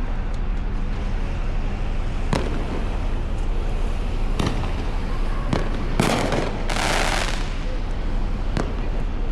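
Scattered firework bangs, about five sharp reports a second or two apart, with a hissing burst lasting about a second around the middle. A steady low rumble runs underneath.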